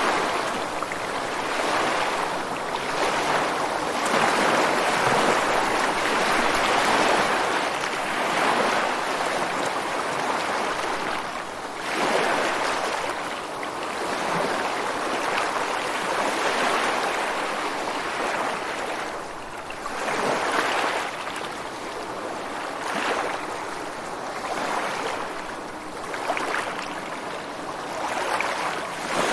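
Ocean surf breaking and washing ashore: a continuous rush of water that swells and eases with each incoming wave, with several stronger surges.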